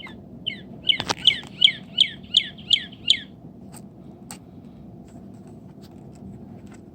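Northern cardinal singing a run of about eight clear whistled notes, each slurring downward, about three a second, that stops about three seconds in.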